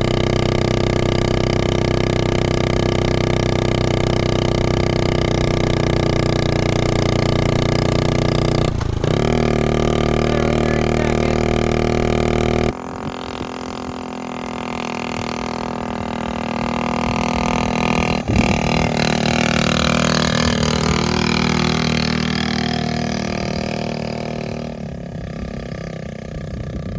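A 1969 Honda Z50 mini bike's small four-stroke single-cylinder engine running steadily. Its pitch shifts about a third of the way in. Later a quieter stretch of the engine swells and fades again as the bike rides past, with a sharp knock in the middle.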